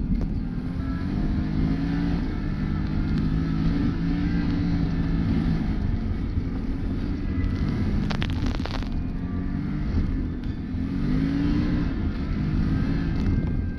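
Can-Am Maverick Sport X mr side-by-side's Rotax V-twin engine running under load, its pitch rising and falling as the throttle is worked on the trail. A brief rush of noise comes about eight seconds in.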